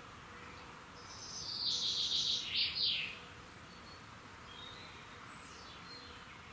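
A songbird singing one loud phrase of rapid repeated high notes that ends in two quick downward-sweeping notes, followed by fainter chirps from further birds, over a steady faint hiss of morning background.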